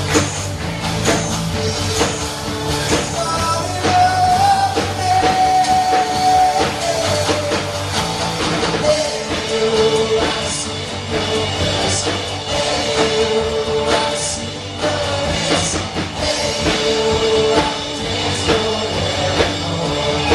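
Live rock-style worship band playing, with drum kit, guitar and held sung notes.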